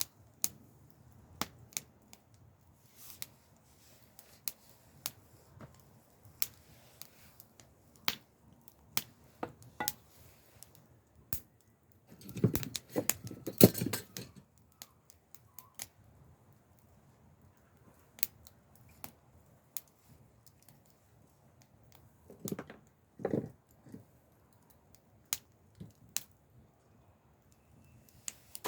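Wood fire crackling: scattered sharp pops and snaps at irregular intervals, with a louder, denser spell of crackling about halfway through and a shorter one later.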